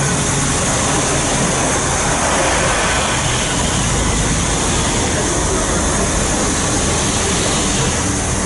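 A train running at a station platform: a loud, steady noise with no breaks or sharp knocks.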